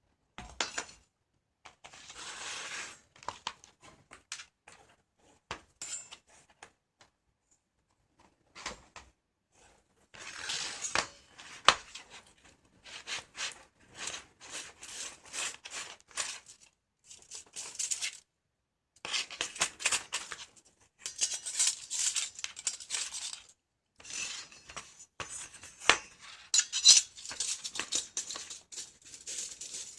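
Stainless steel kitchen parts being handled and fitted together: light metallic clinks, rattles and scraping in irregular bursts, quiet for a few seconds early on and busier in the second half.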